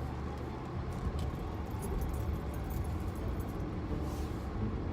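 Honda Accord pulling away, its engine and tyre noise a steady low rumble inside the cabin, with faint light clicks and jingles over it.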